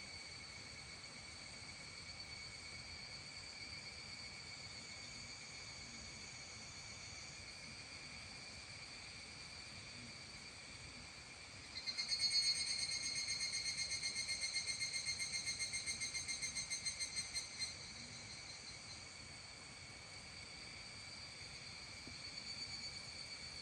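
A steady, high trilling chorus of insects on an early-summer evening. About halfway through, one louder call with a rapid pulse starts suddenly and stops about six seconds later.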